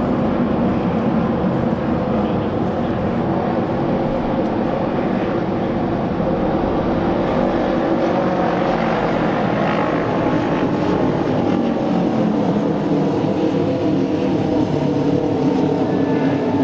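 Engines of several Japanese auto race motorcycles running hard together around the oval, a dense, steady, loud engine drone with many overlapping pitches.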